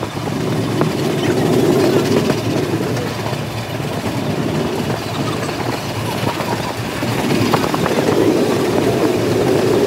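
Vintage steam train running along the track: a steady rumble that swells about a second in and again near the end, with scattered faint clicks.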